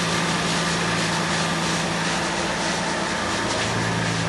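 2003 Lexus IS 300's straight-six engine idling steadily through an aftermarket catback exhaust with a Dynomax muffler, a steady low hum.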